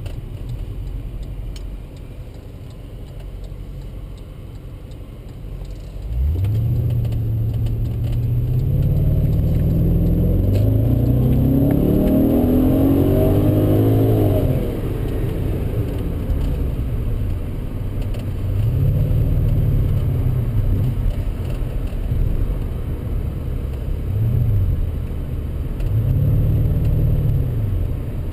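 Audi A6 4.2's V8 engine heard from inside the cabin, cruising at first. About six seconds in it accelerates hard for about eight seconds, climbing in pitch in steps as the automatic upshifts, then eases off. Three shorter pulls of throttle follow.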